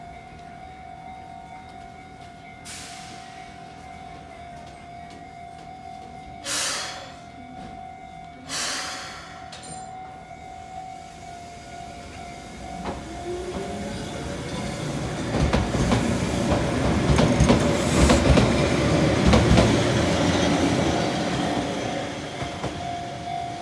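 Keihan 600 series two-car train accelerating past, its motor whine rising in pitch and then wheels rumbling and clattering loudly before fading toward the end. A level-crossing alarm rings steadily throughout. Two short loud bursts of noise come about six and eight seconds in.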